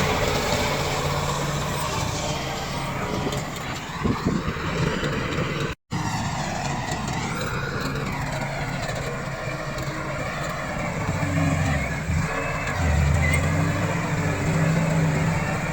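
Komatsu D68 bulldozer's diesel engine running under load, with a brief cut-out in the sound just under six seconds in.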